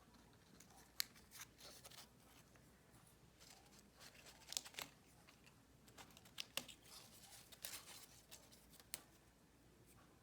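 Faint paper handling during card assembly: scattered light clicks, taps and soft paper rustles, a little louder around the middle.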